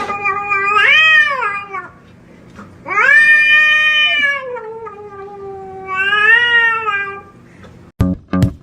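A cat yowling in long, drawn-out calls that rise and fall in pitch, the longest lasting about four seconds. Music with a strong beat cuts in suddenly near the end.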